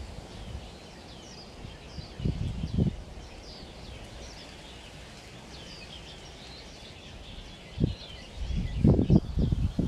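Small birds chirping over and over with short, high, curving calls. Low thumps and rumbles come briefly about two seconds in and again, louder and more often, near the end.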